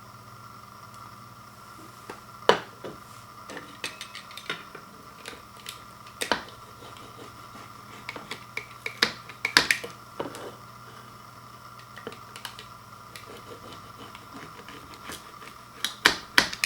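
Dishes and cutlery clinking in irregular sharp clicks and knocks, loudest about two and a half seconds in, around nine to ten seconds in, and near the end, over a steady hum.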